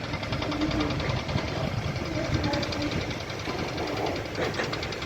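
Saw – The Ride roller coaster on an empty test run: a rapid, even mechanical rattle of the train and track.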